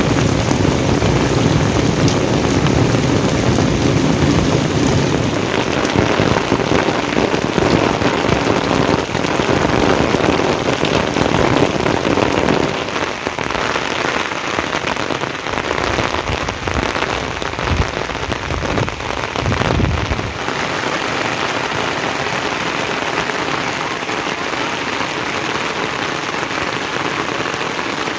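Heavy rain falling steadily. About halfway through, the deep part of the sound drops away and the rain goes on as a thinner hiss.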